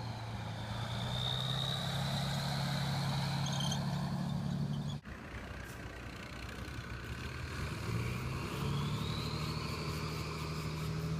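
Tank engine running steadily, with a high whine above it that sinks and then climbs in pitch. The sound breaks off abruptly about five seconds in and picks up again much the same.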